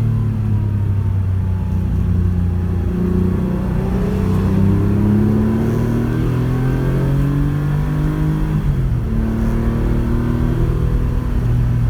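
Porsche 911's flat-six engine pulling hard, its pitch climbing slowly for about eight seconds, then dropping suddenly and running steady.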